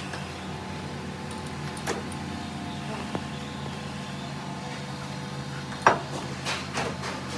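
Workshop machinery humming steadily, with a few knocks: a loud sharp one about three-quarters of the way through, followed by several smaller ones.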